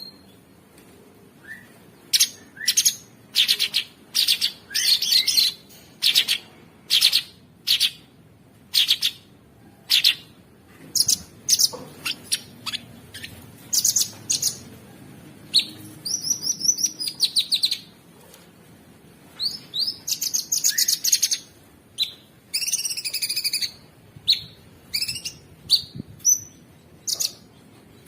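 Cucak sungkok songbird singing a rough, busy song of rapid high chirps, sharp clipped notes and fast warbling trills, delivered in bursts with short pauses between them.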